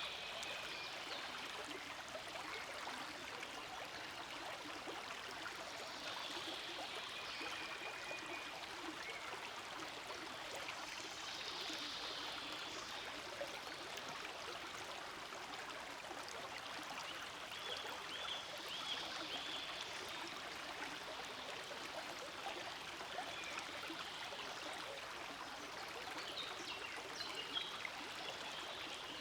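Forest stream flowing steadily, a continuous even rush of water.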